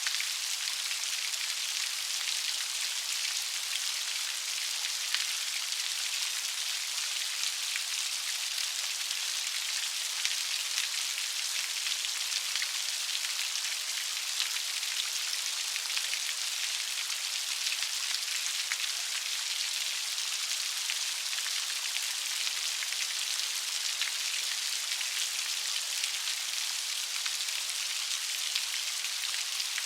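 Steady light rain falling, an even patter of fine drops with a soft hiss and scattered tiny ticks of individual drops.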